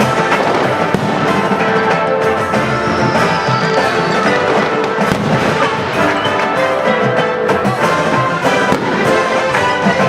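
Fireworks bursting and crackling in quick succession over continuous music.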